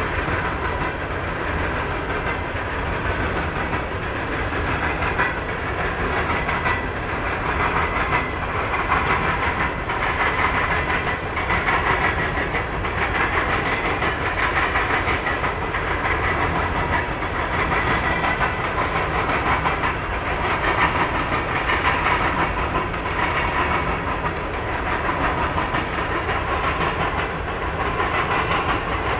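Freight cars of two passing trains rolling by: empty coal hoppers and autorack cars, wheels clattering over the rail joints under a steady rumble, with a steady high squeal over it.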